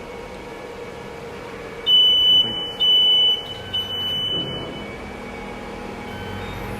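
Electronic buzzer of a BGA rework station beeping a steady high tone: two loud beeps about a second apart, then a fainter beep trailing off near the end. The station's hot-air blower hisses steadily underneath.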